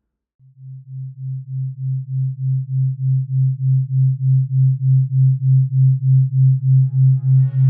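A low, pure electronic tone pulsing evenly about three times a second. It fades in and swells louder, and music with several pitched notes comes in over it near the end.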